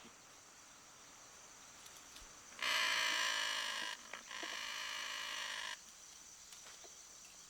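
Macaw chick in the nest giving two long, harsh, steady calls, the second quieter than the first, over a faint insect hum.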